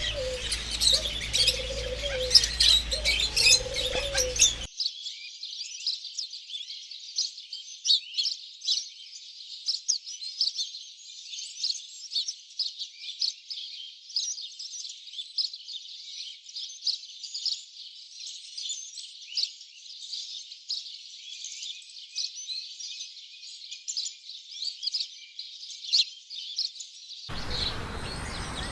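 A dense chorus of small birds chirping and twittering rapidly. In the first few seconds a low, repeated call sounds three times beneath the chirps. About five seconds in the sound turns thin and trebly, leaving only the chirping, until a fuller sound returns near the end.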